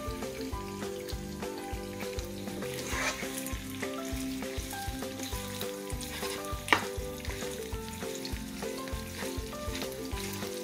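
Marinated chicken pieces frying in hot oil in a nonstick pan, sizzling steadily while a wooden spatula stirs and turns them, with an occasional scrape or knock of the spatula on the pan. Soft background music with a steady beat plays underneath.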